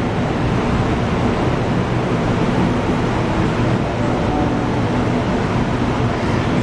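Electric commuter train standing at a platform with its doors open, giving a steady, even rumble with a low hum from its onboard equipment.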